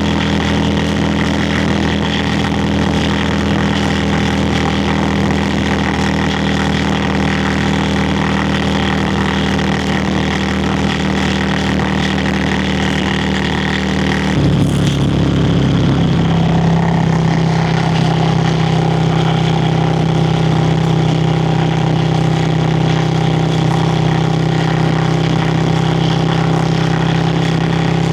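Yamaha Virago XV535's air-cooled V-twin exhaust running steadily under way. About halfway through, the engine note changes abruptly and settles slightly lower and a little louder.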